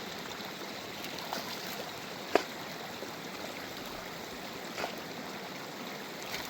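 Steady rush of running water and heavy rain, with a few sharp clicks, the loudest about two and a half seconds in.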